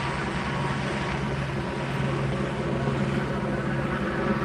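Police helicopter hovering overhead: a steady drone of its rotor and engine with a fast, even beat of the blades.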